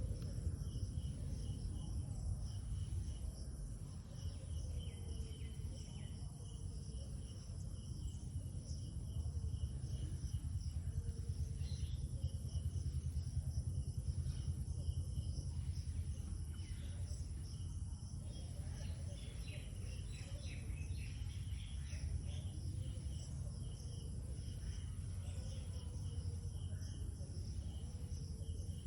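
Outdoor insect chorus, crickets trilling steadily at a high pitch, over a low, steady background rumble.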